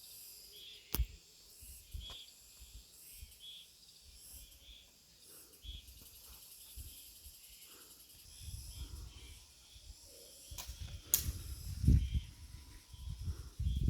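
Insects chirring in a steady, pulsing chorus, with a few sharp clicks and low rumbling in the second half.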